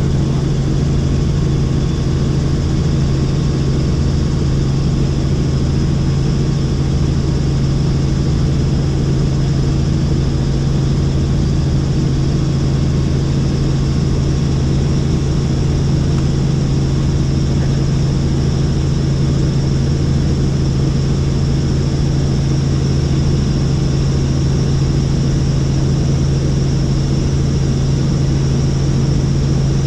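Helicopter in flight: a loud, steady drone of rotor and engine, with a thin high whine over it.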